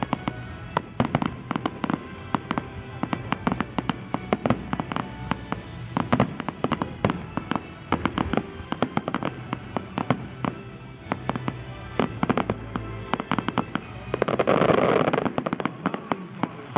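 Fireworks display: aerial shells bursting in a rapid, irregular run of bangs and crackling pops. A louder rush of noise lasts about a second and a half near the end.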